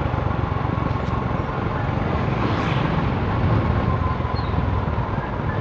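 A vehicle engine running on the move, with strong storm wind rushing and buffeting over the microphone in a steady low rumble.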